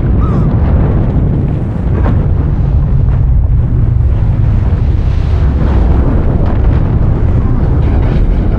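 A loud, steady low rumble with rushing, wind-like noise: an action film's vehicle-stunt sound effects.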